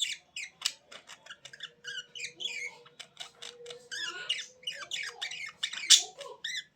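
Birds chirping and squawking in quick, overlapping calls, a busy chatter of short high notes and clicks.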